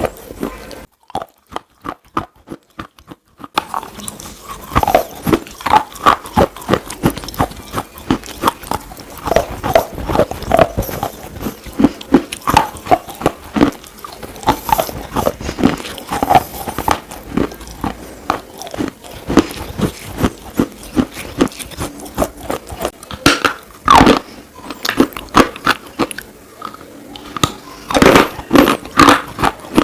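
Close-up biting and chewing of hard, brittle slate: a fast run of sharp, dry crunches and cracks, with a brief lull about a second in and louder clusters of bites near the end.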